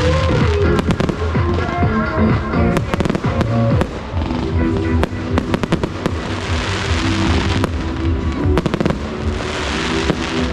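Fireworks going off: many sharp bangs and crackles in quick succession, with stretches of hissing crackle about six seconds in and again near the end, over loud dance music with a steady bass beat.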